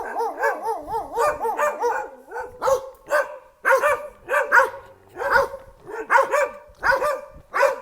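A dog whining with a wavering pitch, then barking repeatedly in short, quick barks.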